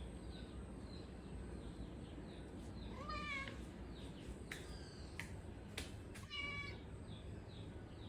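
Domestic cat meowing twice, a few seconds apart, asking for milk.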